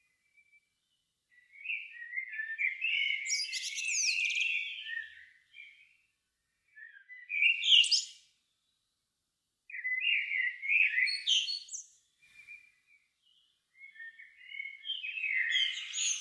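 A songbird singing in four separate phrases of about one to four seconds, with short pauses between them. Each phrase runs from lower warbling notes into higher twittering.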